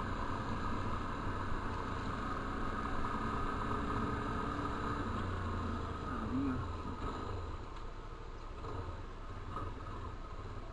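Steady low hum of an engine running, heard quietly, with no sharp events.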